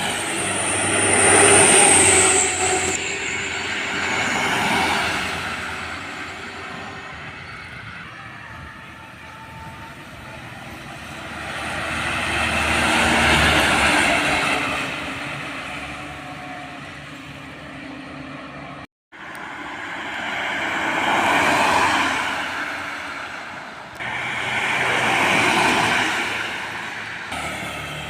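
Road traffic passing close by: vehicles go past one after another, each swelling to a peak and fading away, about five pass-bys, with a brief dropout in the sound a little past two-thirds of the way through.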